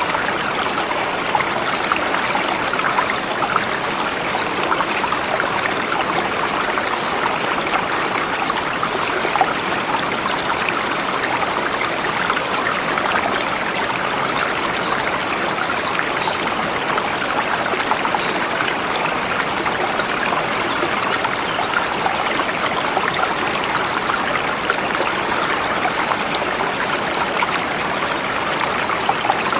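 Forest river flowing swiftly over rocks: a steady, even rush of water.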